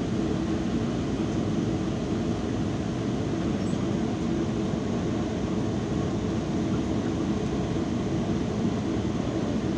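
Steady rumble of a Metrolink commuter train heard from inside the passenger car as it rolls along, with a constant low hum underneath.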